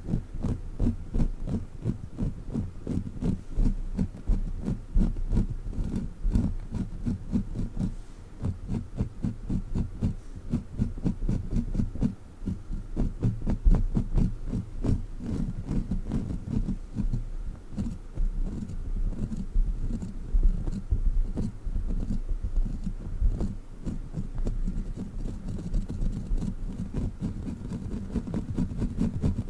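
A sticky crawler toy being pressed and pulled on the microphone, making rapid, muffled low thumps with a sticky patter, several a second and without a break.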